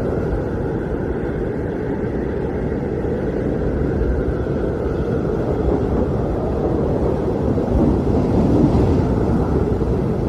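Blizzard wind blowing steadily, a low rushing noise that swells in a gust about eight seconds in.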